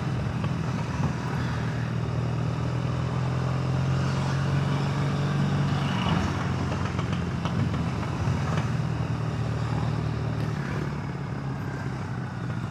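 Triumph Bonneville parallel-twin engine running steadily under way, heard over wind and road noise; the engine note eases off about halfway through.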